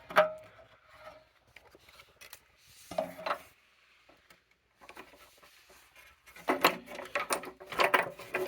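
Handling noise from a partly dismantled Hoover Model O vacuum cleaner: a sharp knock, a short clatter about three seconds in, then a run of knocks and rubbing near the end as the parts are moved about.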